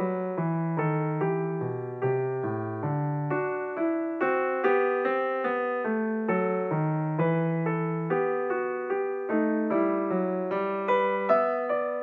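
Background piano music: a gentle, even run of notes, each struck and fading, with a bass line underneath.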